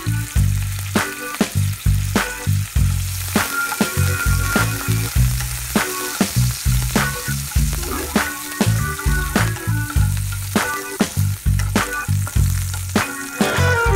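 Background music with a steady beat over garlic and chopped green chillies sizzling in oil in a wok as a wooden spatula stirs them.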